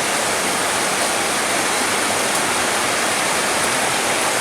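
Steady, heavy rain: a dense, even rushing hiss with no breaks.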